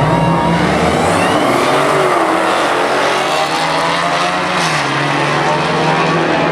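Drag car engines running loud and steady, the pitch rising briefly about two seconds in and dropping a step near five seconds.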